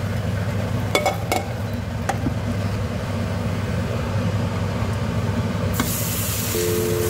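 Egg omelette sizzling in a nonstick frying pan, with a few light knocks in the first couple of seconds as the pan is shaken and handled. The sizzle gets louder near the end, once the omelette has been flipped with a plate and slid back into the pan.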